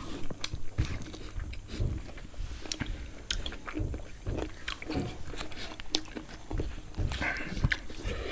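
People chewing and biting roasted pig-head meat close to the microphone, with irregular wet mouth clicks and smacks.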